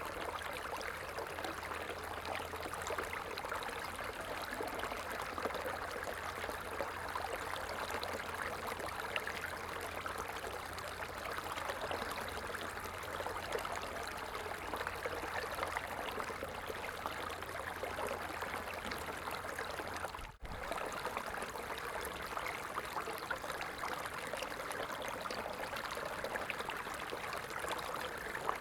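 A stream running steadily, an even rush of flowing water with a brief dropout about two-thirds of the way through.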